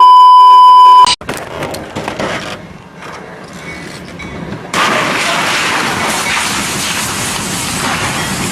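A loud, steady 1 kHz censor bleep lasts about a second and cuts off abruptly, followed by noisy outdoor footage audio. About five seconds in, a steady loud rushing noise begins.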